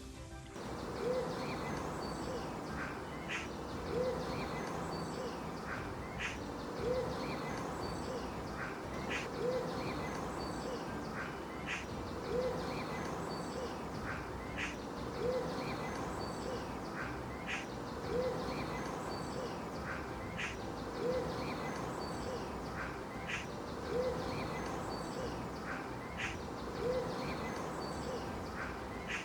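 A bird's short hooting call, repeated evenly about every three seconds over a steady hiss, with faint higher bird chirps in between.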